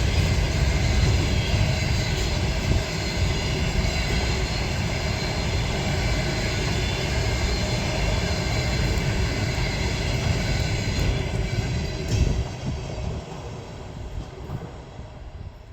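A train passing close by: a loud, steady rail rumble with a ringing hum of tones over it. There is a single louder clank about twelve seconds in, then the sound fades away as the train recedes.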